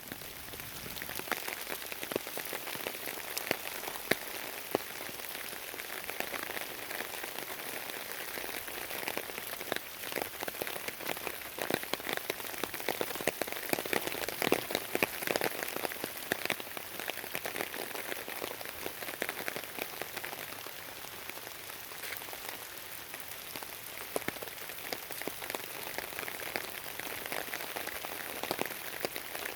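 Steady rain with many close drops pattering, a little heavier through the middle.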